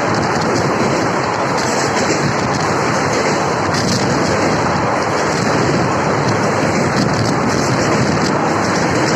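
Steady running noise of a moving Indian Railways passenger train, wheels on the rails and rushing air, loud and even throughout.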